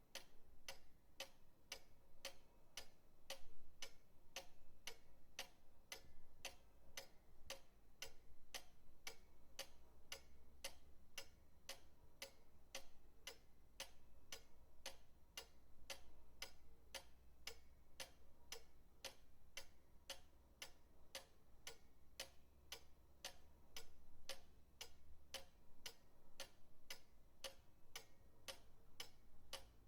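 Pendulum clock ticking steadily, about two sharp ticks a second in an even tick-tock rhythm.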